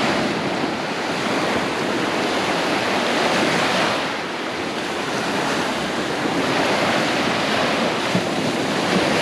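Small surf washing onto the beach, a steady rush that swells and eases, with wind buffeting the microphone.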